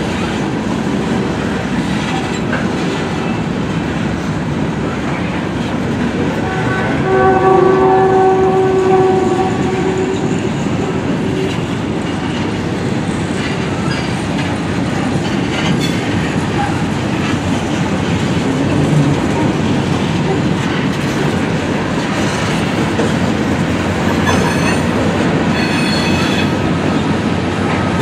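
Freight cars rolling past with a steady rumble and wheel clatter. About seven seconds in, a train horn sounds for a few seconds over it.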